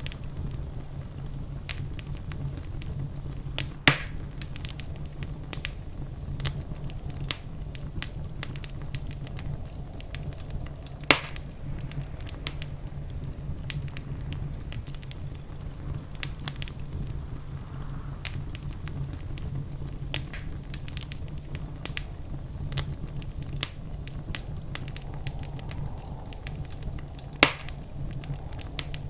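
Wood fire in a fireplace crackling steadily, with many small snaps over a steady low rumble and three louder pops, about 4, 11 and 27 seconds in.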